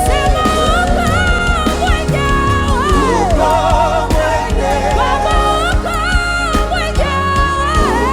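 Live gospel praise-and-worship music: a voice sings a gliding, wavering melody over a steady bass line and drum beat.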